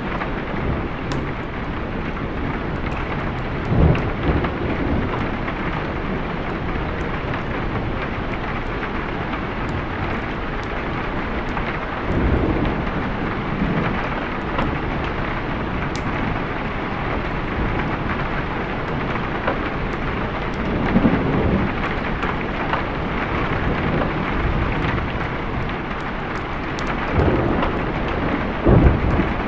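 Steady heavy rain with low rolls of thunder swelling up about four times.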